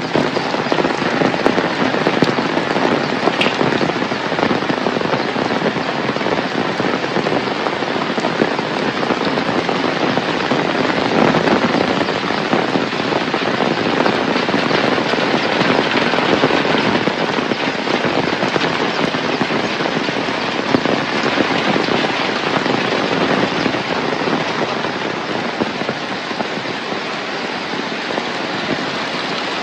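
Heavy rain falling steadily, a dense patter of drops hitting surfaces, easing slightly near the end.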